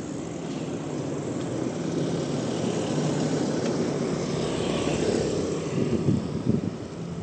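An engine drone that grows louder over the first couple of seconds and then holds steady, with wind gusting on the microphone near the end.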